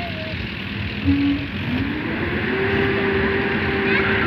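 Competition pulling tractor's engine giving a short loud blip, then revving up and holding at high revs as it makes its pull.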